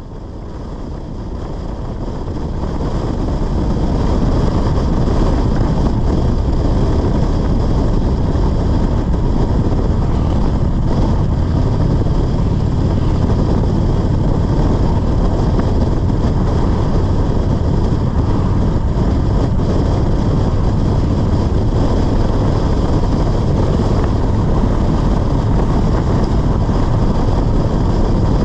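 Motorcycle engine running at road speed under heavy wind rush on the microphone, fading in over the first few seconds and then holding steady.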